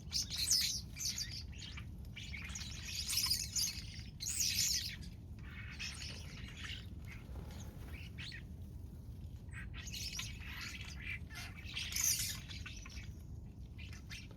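A flock of birds calling from an apple tree, many short chirping calls overlapping in busy bursts, with a thinner stretch in the middle.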